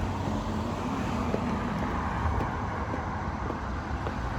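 Steady outdoor background rumble of road traffic.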